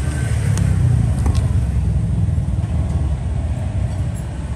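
A steady low rumble of background noise, with a few light clicks about half a second to a second and a half in.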